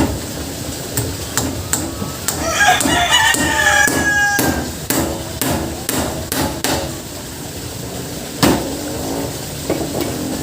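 Hammer striking nails in a run of sharp blows, about two a second, with one harder blow near the end. A rooster crows partway through.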